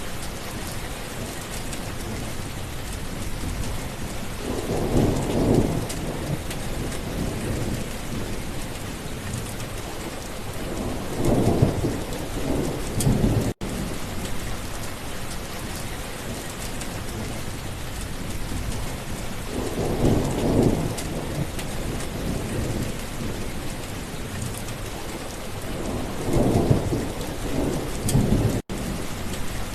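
Steady rain falling, with thunder rumbling four times, each roll swelling and fading over a second or two. The sound cuts out for an instant twice, about halfway and near the end.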